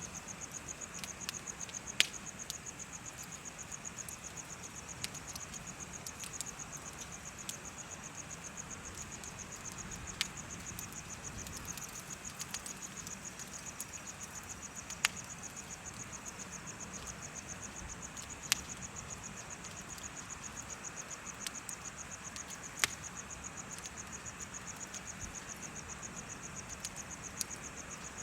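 Crickets chirping in a steady, rapid, high-pitched pulse, over the soft hiss of a bonfire with sharp wood pops now and then, about five loud ones.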